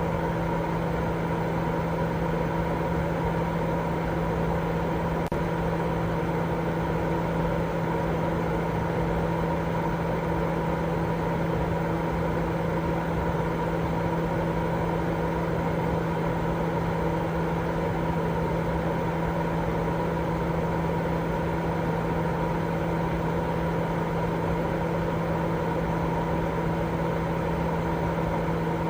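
Continuous baby-sleep white noise: an even, unchanging hiss with a steady low hum and a few constant tones running through it.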